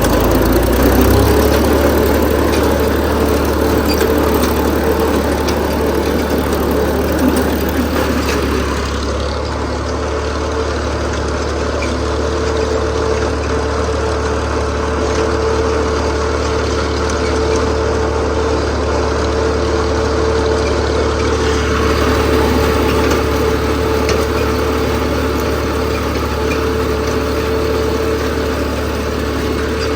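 Tractor engine running steadily at an even speed, a constant drone.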